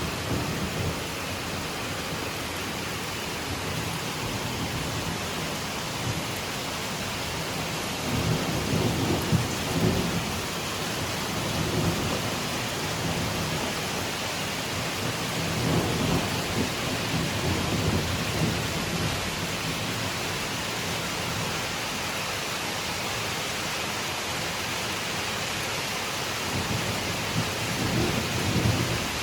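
Steady rain falling on autumn foliage, an even hiss, with deeper rumbling swells about eight seconds in, again around sixteen seconds, and near the end.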